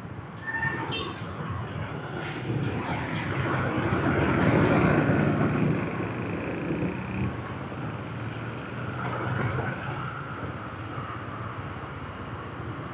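Busy motorbike street traffic: many small motorbike engines running with tyre and road noise, swelling as traffic passes close about four to five seconds in. A short beep sounds near the start.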